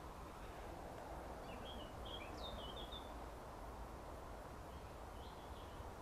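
Small bird twittering: a quick run of chirps about a second and a half in and a fainter few near the end, over a steady background hiss.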